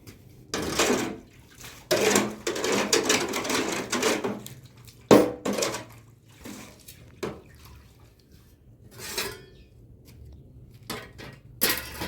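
Kitchenware being handled: irregular bursts of clattering and scraping, with a single sharp knock, the loudest sound, about five seconds in.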